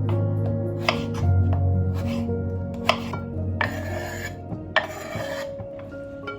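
Objects being handled: three sharp knocks and two short rasping scrapes about four and five seconds in, over quiet background music.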